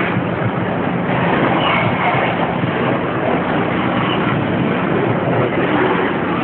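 Trains crossing beside a loaded iron-ore train: a steady rumble of wheels on rail under a constant low diesel hum, with no break or change.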